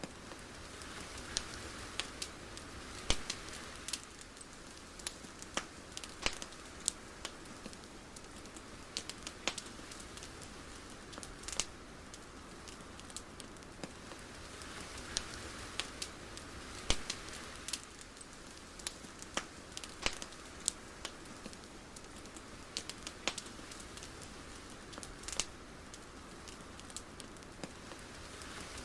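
Ambient night soundscape: a soft hiss that swells and fades about every fourteen seconds, sprinkled with irregular sharp crackles and clicks.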